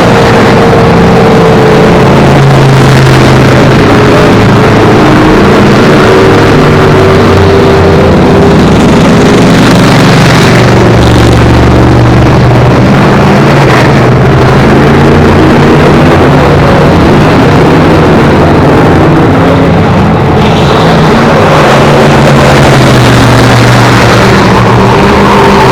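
Several race car engines running and revving at once, very loud, their pitches rising and falling against one another over a dense rumble.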